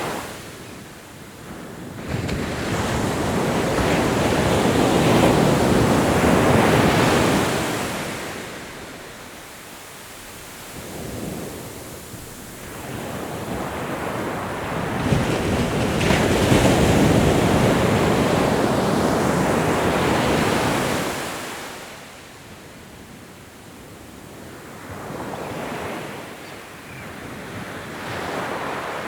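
Ocean surf: waves break and wash in slow surges, each swelling and fading over several seconds. Two large waves come early and in the middle, with smaller ones between.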